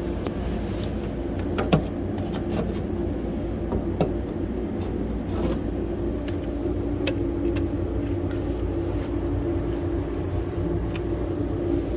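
A machine running with a steady low drone, with a few sharp clicks and knocks over it, the loudest about two seconds in.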